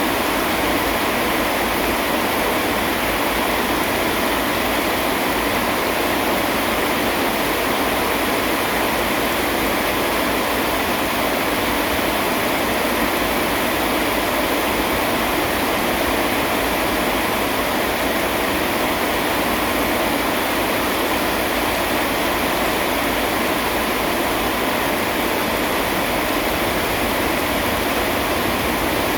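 Steady rain falling: an even, unbroken hiss with no thunderclaps.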